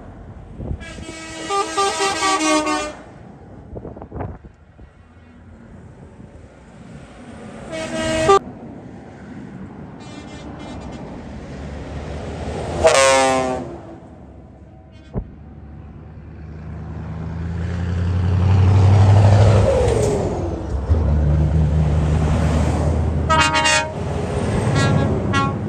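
Trucks in a convoy sounding their horns as they pass: several multi-note horn blasts, one falling in pitch as it goes by. Midway, a truck engine grows louder and drops in pitch as the truck drives past, and there is another horn blast near the end.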